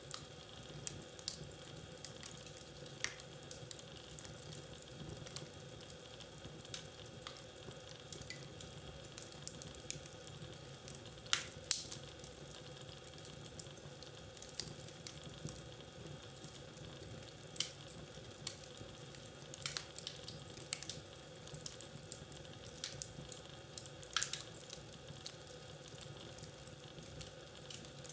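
Wood fire crackling in a fireplace: irregular sharp pops and snaps over a soft steady hiss. The loudest pop comes about eleven seconds in.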